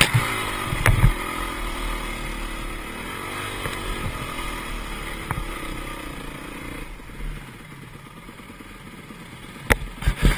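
Dirt bike engine running, its pitch rising and falling with the throttle, then dropping away to a quieter level about two-thirds of the way through. A few sharp knocks near the start and again near the end.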